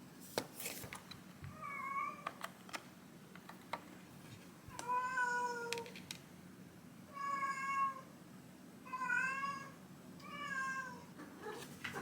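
Domestic cat meowing five times, each meow under a second long, with a few light clicks between the calls.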